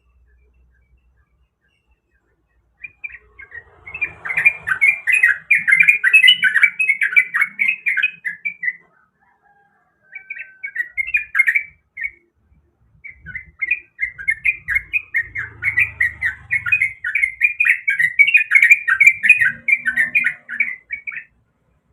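Yellow-vented bulbul (trucukan) singing in long runs of rapid, loud chattering notes. The song starts about three seconds in and breaks off briefly twice.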